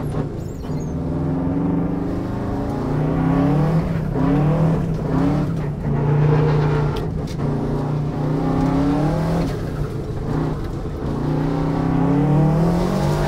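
Turbocharged Subaru EJ22 flat-four rally engine heard from inside the cabin, revving up and dropping back again and again as the driver works through the gears.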